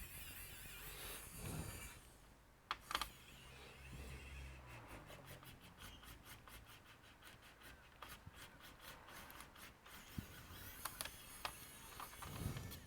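Faint clicks and rubbing from hands and tools working on a laptop's plastic case during disassembly. There are a couple of sharp clicks about three seconds in, a run of quick light ticks for a few seconds after that, and scattered clicks near the end.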